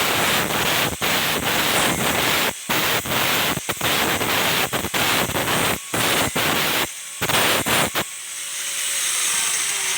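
Angle grinder smoothing a welded iron joint: a harsh, steady grinding hiss that keeps breaking off for a moment as the disc is lifted and set back on the metal. About eight seconds in it comes off the work and the whine falls slowly in pitch as the grinder spins down.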